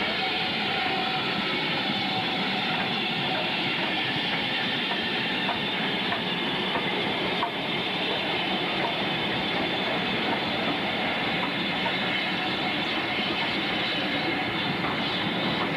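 Train running along the track: a steady rumble with occasional clicks from the wheels.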